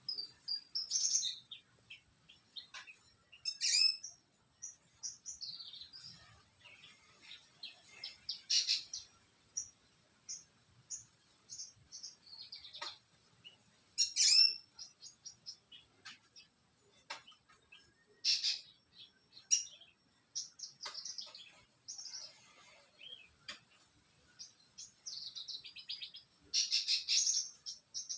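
Javan bush lark (branjangan) singing a long, varied song of quick high chirps, trills and whistles in runs with short pauses between them.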